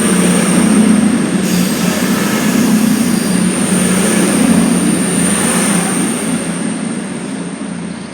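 Class 221 Super Voyager diesel-electric unit running close by, a loud steady rumble of engine and wheels on the rails with a thin high-pitched whine held over it. It eases slightly in the last couple of seconds.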